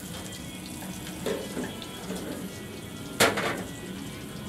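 Food sizzling on a gas grill, a steady hiss. A light knock about a second in, then a sharp, louder clank of a metal utensil on the cookware about three seconds in.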